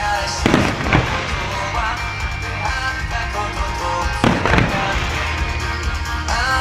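Pop-rock music playing over loudspeakers with aerial firework shells bursting in time with it: a pair of bangs about half a second and one second in, and another cluster of bursts with crackle about four and a half seconds in.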